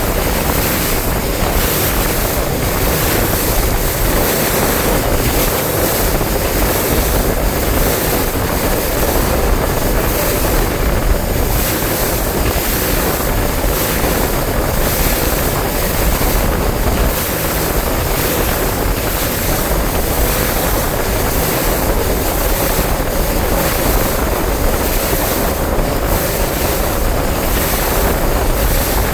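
Wind buffeting the microphone and lake water rushing and splashing around a bass boat, with a steady low hum underneath.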